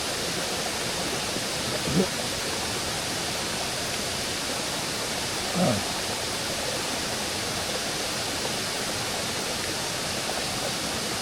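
Steady, even rushing-water hiss from a nearby mountain stream or waterfall, with two brief short sounds about two and six seconds in.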